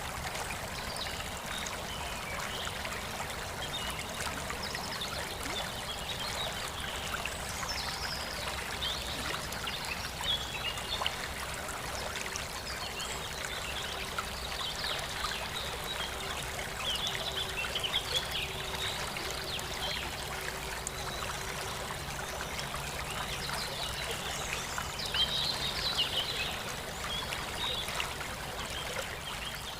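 Water trickling and splashing steadily, with a few slightly louder splashy moments about a third of the way in, around the middle, and near the end.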